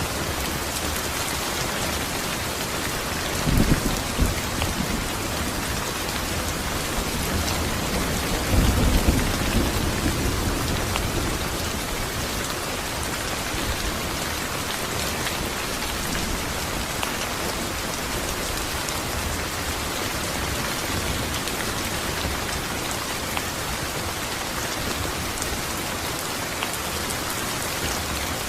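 Steady heavy rain falling, an even hiss of drops. Thunder sounds twice: a short sharp crack about three and a half seconds in, and a longer low rumble from about nine seconds in.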